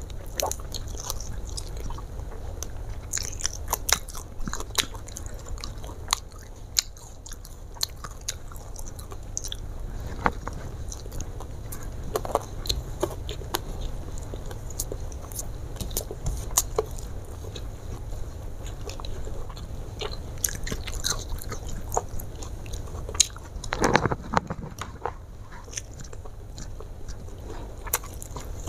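A person chewing and biting close to the microphone, with scattered crunches and mouth clicks, eating crispy garlic fried chicken and rice. There is one louder burst near the end.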